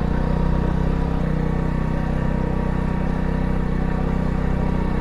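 Motorbike engine running steadily, its note changing slightly about a second in.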